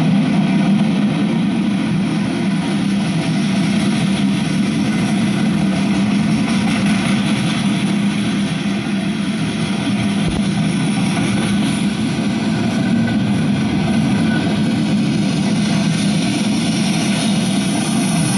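Freight train of covered hoppers and tank cars rolling past: a steady rumble and rattle of steel wheels on the rails.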